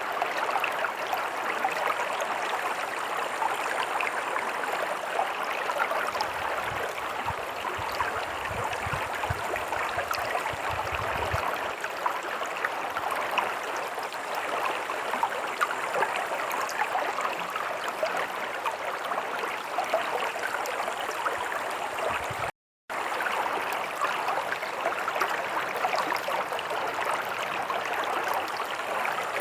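Shallow stream running and gurgling steadily over rocks. A low rumble lies under it for a few seconds about six seconds in, and the sound cuts out for a split second about 23 seconds in.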